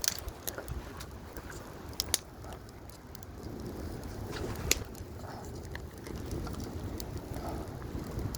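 Wind buffeting the microphone with a steady low rumble, broken by scattered sharp clicks and cracks, the loudest two about two seconds in and one near the middle.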